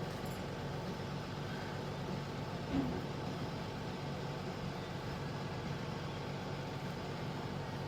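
A vehicle engine running steadily at idle, a low even hum, with one faint short knock about three seconds in.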